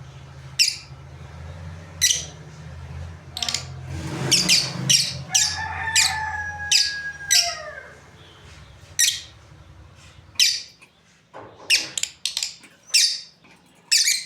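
Lovebirds giving short, shrill squawking chirps about once a second, with a quick cluster of calls around four to five seconds in.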